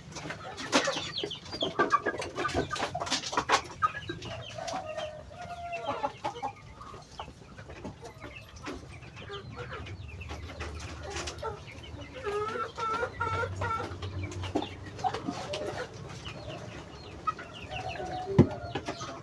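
A flock of Muscovy ducks eating, with many quick clicks of bills working the feed and scattered short calls from the birds.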